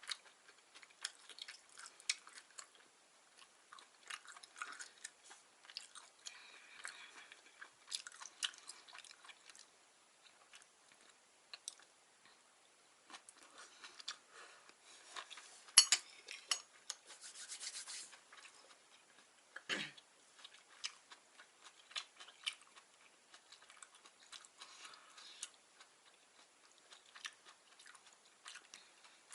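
Close-miked chewing and eating: wet mouth sounds and many small irregular clicks as spicy vegetable gopchang is chewed. A little past halfway there is a sharp click, the loudest sound, followed by a quick rattle lasting a couple of seconds.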